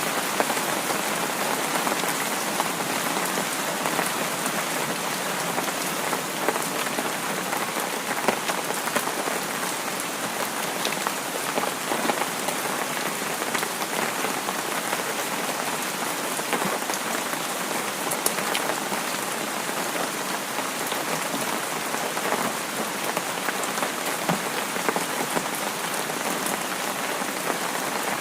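Steady rain falling on a surface, a constant hiss with scattered individual drop ticks.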